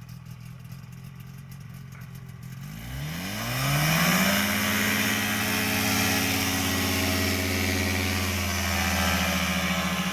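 Lada car engine idling, then revving up over about a second and a half and held at high revs for several seconds before easing off near the end.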